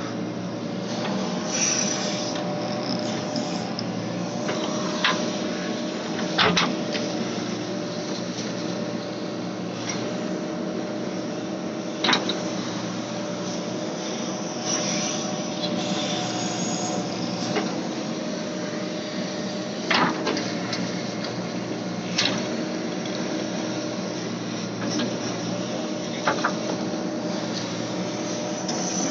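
JCB backhoe loader's diesel engine running steadily, with sharp knocks every few seconds.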